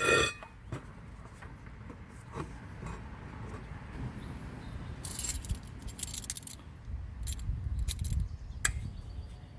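Light metallic clinks and jingling of metal hardware being handled during brake work: a sharp clink at the start, scattered ticks, and clusters of jingling about five and seven to eight seconds in.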